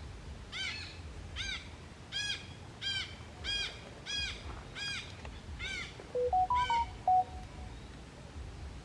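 Bird calls: a series of about eight arched, rising-then-falling notes, one every two-thirds of a second, then near the end a short run of clear whistled notes that step up and down in pitch, the loudest sound.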